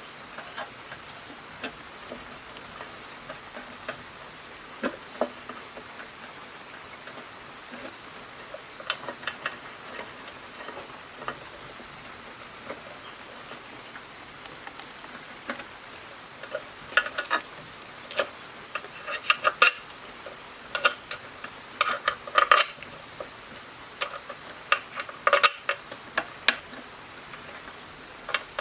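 Light metallic clicks and taps of hand tools and small metal parts being handled, sparse at first and busier in the second half, over a steady high hiss.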